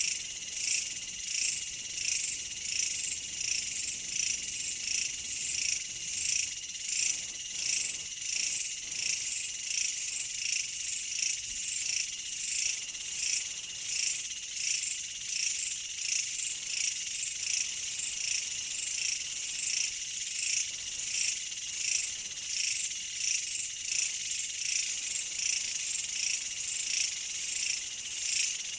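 Chorus of chirping insects: steady high-pitched trilling that swells and fades in an even rhythm a little more than once a second.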